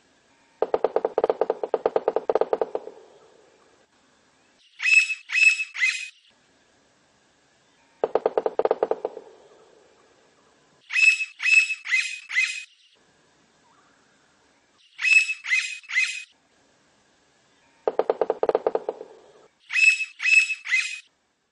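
Blond-crested woodpecker calling in short groups of three or four sharp, high notes every few seconds. Between them comes a lower, rapid rattle lasting one to two seconds that fades away, three times in all.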